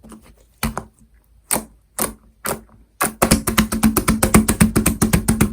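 Orange cream slime being worked by hand, making sharp popping clicks: four single pops spaced about half a second apart, then a fast run of about ten clicks a second from about three seconds in.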